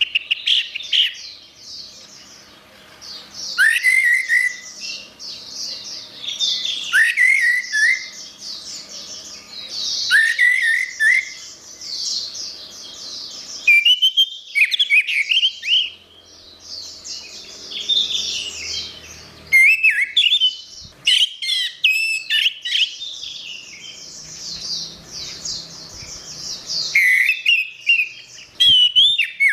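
Orange-headed thrush singing a continuous, rapid warbling song of varied high phrases, broken every few seconds by lower, slurred whistled notes.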